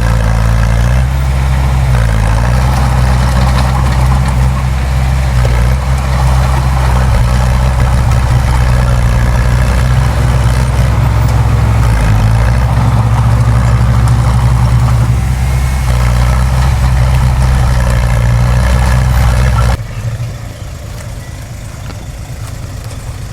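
Diesel engine of a heavy earthmoving machine running steadily, its engine speed shifting up and down a few times. About twenty seconds in the sound drops suddenly to a quieter engine rumble.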